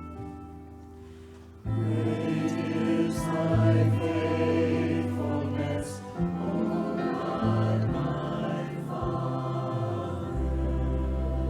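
Church music: voices singing a hymn with keyboard accompaniment. The singing comes in about a second and a half in, over a held keyboard chord.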